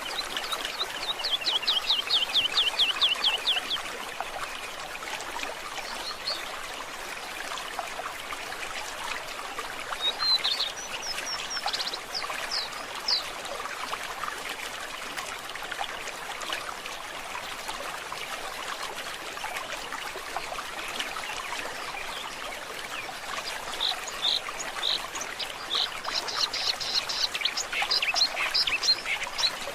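Stream water running steadily, with birds calling over it: a fast trill of repeated notes near the start, a few chirps about ten to thirteen seconds in, and a run of calls near the end.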